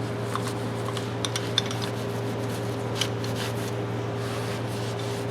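Steel adjustable wrenches being handled: a few light metal clicks and clinks, about a second in and again near three seconds, over a steady room hum.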